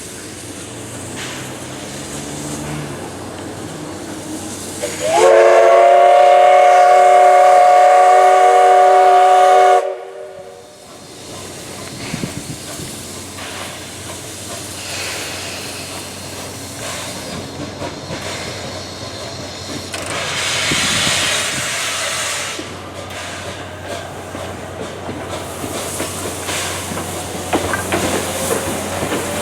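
Whistle of the C11 123 steam locomotive blown in one long blast of about five seconds, starting about five seconds in, over the steady sound of the train; about twenty seconds in, a hiss of steam being let off for a couple of seconds.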